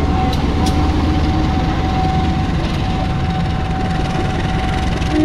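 Train running at the station: a steady low rumble with a steady whine held over it.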